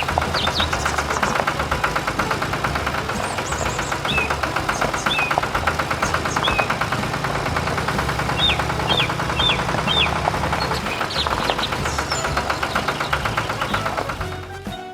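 Mini tractor's engine running with a fast, even knocking beat, its low drone rising and falling in level as it works. Short chirps sound now and then over it, a quick run of four about two thirds of the way through.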